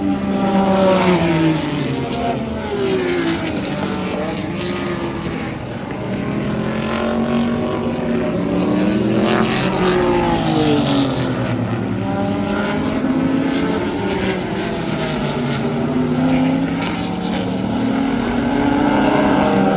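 Several historic 1970s IMSA GT-era race cars passing at speed, their engine notes overlapping and rising and falling in pitch as they come by and change gear.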